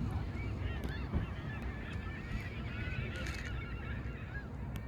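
A flock of water birds calling at once, many short overlapping calls, over a steady low rumble.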